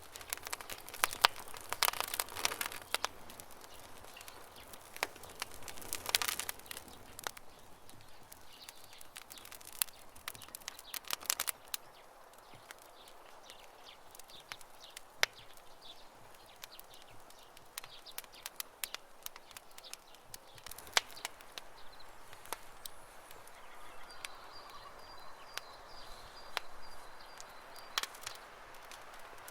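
Wood campfire crackling, with irregular sharp snaps and pops that come in clusters over a soft hiss. A bird calls faintly with a high, thin note near the end.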